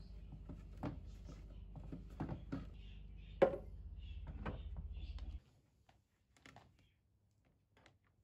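Light knocks and thuds of household objects being handled, the loudest about three and a half seconds in, over a low steady hum that cuts off suddenly a little past halfway; a few faint taps follow.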